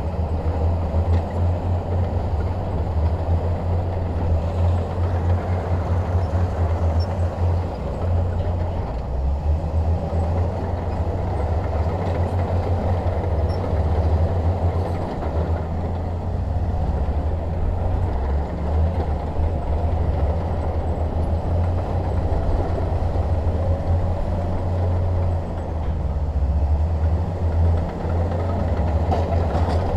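Shantui DH17 bulldozer's diesel engine running steadily, a continuous deep rumble.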